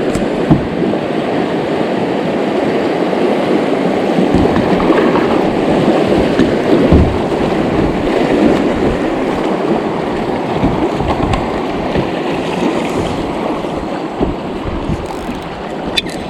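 River rapids rushing around a kayak: a loud, steady wash of moving water with an occasional knock.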